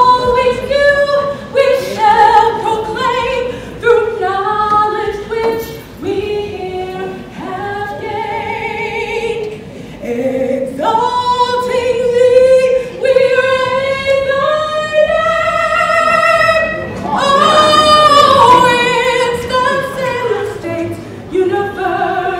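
Singing voices, choir-like, carrying a slow melody of long held notes with vibrato.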